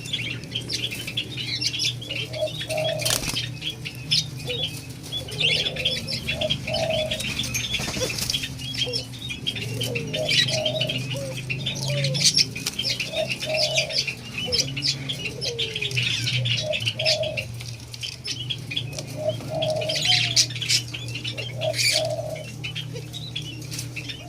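White-eared brown doves flapping their wings and giving short, repeated call notes, some sliding upward in pitch. A fast scratchy ticking runs over the top, and a steady low hum lies underneath.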